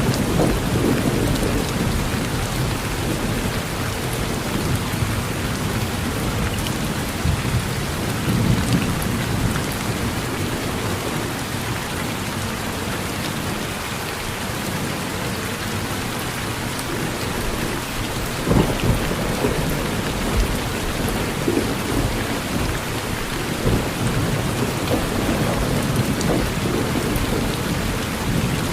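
Steady heavy rain falling on a porch, with low thunder rumbling and swelling several times and a sharper thunder crack about two-thirds of the way through.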